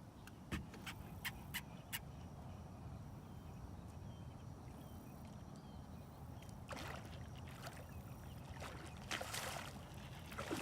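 Water lapping and swishing against a small boat's hull, with a few sharp clicks in the first two seconds and two brief splashy swishes later on.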